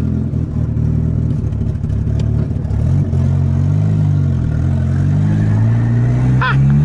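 Turbocharged Volkswagen Gol's engine under load, heard from inside the cabin as the car accelerates at about 1 kg/cm² of boost. It runs steadily at first, then from about three seconds in its pitch climbs and drops several times.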